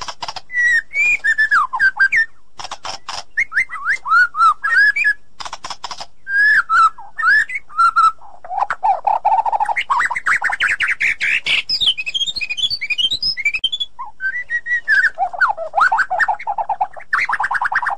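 White-rumped shama singing a long, varied song of rich whistles, sweeping notes, fast trills and sharp clicking rattles.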